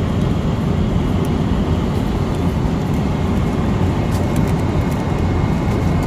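Steady cabin noise of a jet airliner in flight: an even engine and airflow rush, strongest in the low range.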